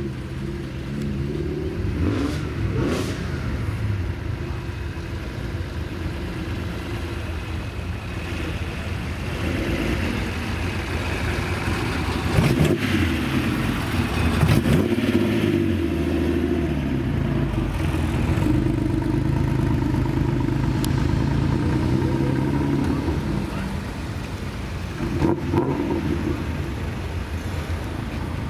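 Engines of custom old street-racer-style cars running and revving as they drive past, the exhaust note rising and falling in pitch, with a few short sharp knocks along the way.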